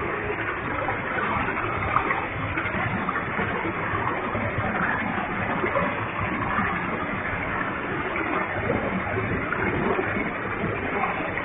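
Waterfall with a heavy flow of water crashing down in a steady, continuous rush.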